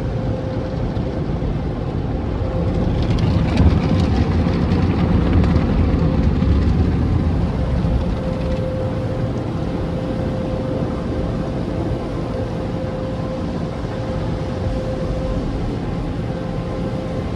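Express car wash machinery running: a steady rumble with a constant hum. It grows louder with a hissing, crackling layer between about three and eight seconds in.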